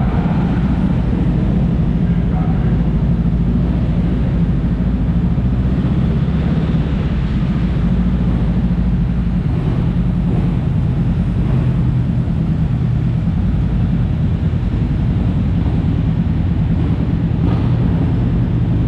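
A steady low engine drone holding the same pitch and level throughout, with no revving.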